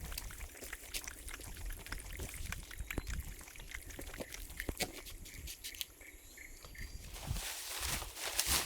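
An animal lapping and slurping water in quick small wet clicks, over a low rumble. A rushing hiss rises near the end.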